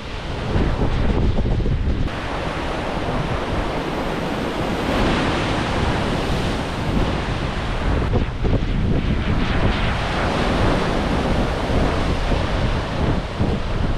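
Ocean surf breaking below the sea arch, with wind buffeting the microphone; the wash swells louder about a third of the way in, then eases.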